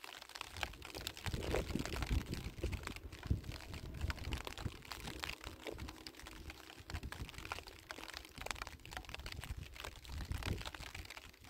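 Metal shovel scraping and crunching in dry, stony soil, with many small clicks of gravel and loose dirt. Near the end, footsteps crunch on the gravelly slope.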